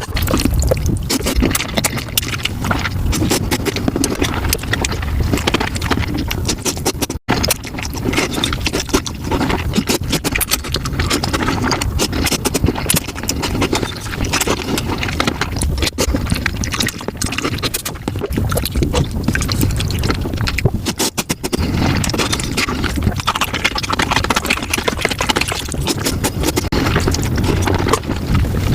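Mukbang eating sounds of spicy tofu soup played at five times speed: a dense, continuous run of quick chewing, slurping and clicking. The sound drops out briefly about seven seconds in.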